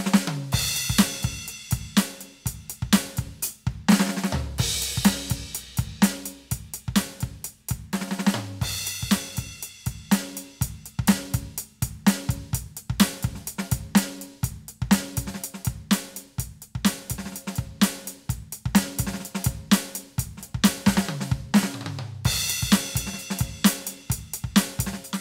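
Roland TD-17KVX electronic drum kit played in a steady groove of kick, snare and hi-hat, heard through the module's output, with crash cymbal hits marking phrases every few seconds.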